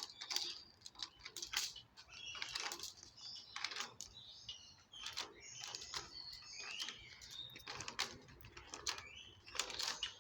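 A metal chain clinking and rattling in irregular clicks as a kaka plays with it, with brief high bird chirps in between.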